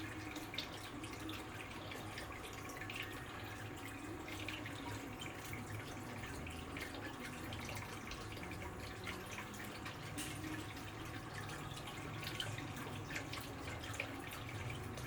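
Water dripping and trickling with many small splashes, over a faint steady hum.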